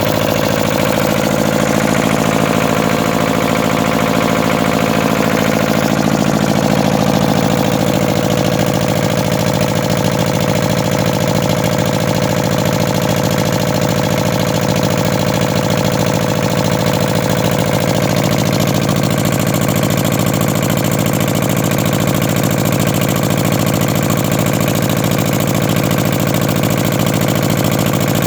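Lister HA2 two-cylinder air-cooled diesel engine, with an alternator, running steadily shortly after a cold start, with an even, fast firing beat.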